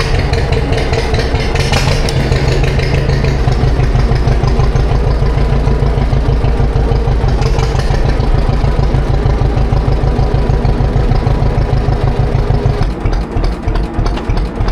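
Classic John Deere tractor engine running steadily in a fast, even beat, then throttled back near the end to a slower, more open beat.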